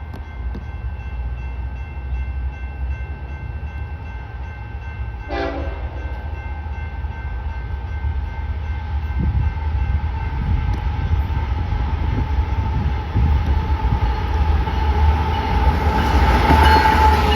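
Train horn giving one short blast about five seconds in, then the rumble of an approaching train growing steadily louder, with a steady tone rising in level as it nears.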